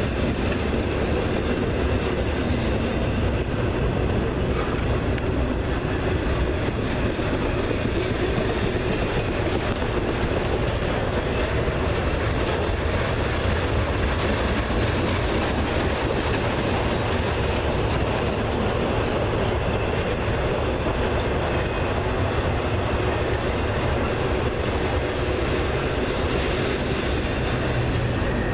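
A train passing, its cars rolling along the rails in a steady, unbroken run.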